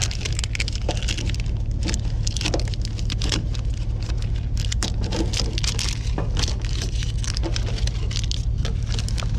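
A vehicle engine running steadily as a low hum, with scattered clicks, cracks and clatter of scrap being handled while power cords are cut off.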